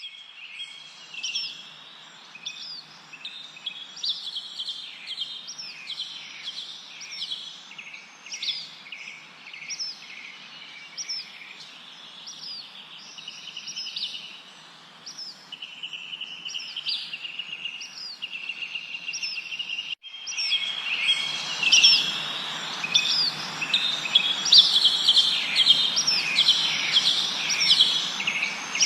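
Several songbirds chirping and whistling in rapid repeated short notes over a steady background hiss. About 20 s in the sound cuts out for an instant, and the chirping comes back louder over a stronger hiss.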